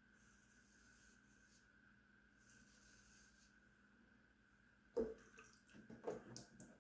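Faint scraping strokes of a Gillette Super Speed safety razor cutting stubble on the scalp, each about a second long. Near the end come a few sharp knocks and splashes as the razor is rinsed and tapped in the sink.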